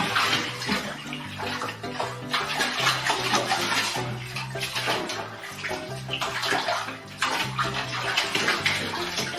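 Water splashing, as in a bathtub, over background music.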